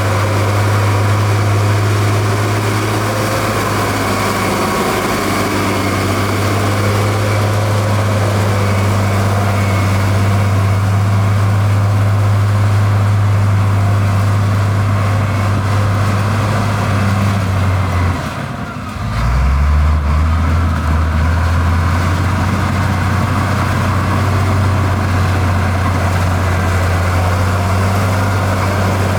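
Heavy diesel engine of earthmoving machinery running steadily with a low hum; about two-thirds of the way through it briefly drops away and comes back at a slightly lower pitch.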